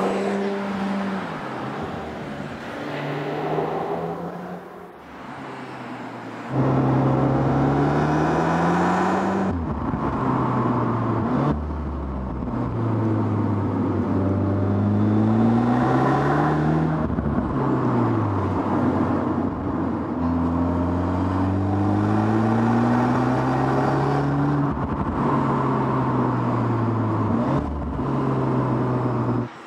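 Audi S3 Sportback's turbocharged 2.0 TFSI four-cylinder engine pulling hard through the gears. The revs climb and fall back sharply again and again, the pattern of upshifts in its seven-speed dual-clutch gearbox. A quieter low-rev stretch comes early, and the loudness jumps up suddenly about six seconds in.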